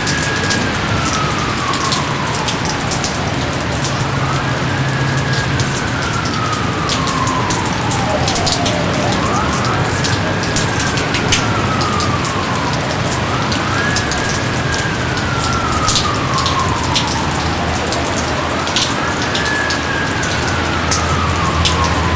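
Steady heavy rain, with individual drops ticking close by. Over it, a whistling tone rises quickly and then slides slowly down, repeating about every four to five seconds.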